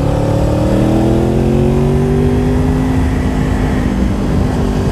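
Motorcycle engine pulling steadily under light acceleration, its pitch rising slowly and then levelling off, over a low rumble of riding noise.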